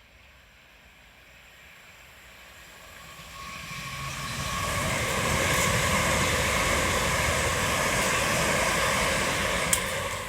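Southeastern electric passenger train passing through a station at speed: its rumble and wheel noise build over a few seconds, hold loud, then begin to die away near the end, with one sharp click just before it fades.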